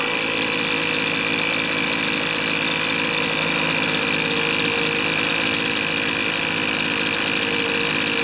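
Two-stroke engine of a Weed Eater leaf blower running steadily, with an even pitch and no change in speed.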